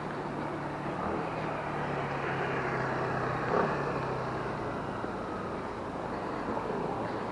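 A motor vehicle going by, its low engine hum fading out about halfway through, over a steady rushing background.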